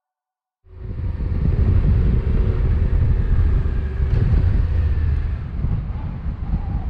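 Motorcycle riding: wind buffeting the microphone over a steadily running engine. It starts abruptly less than a second in, after a moment of silence.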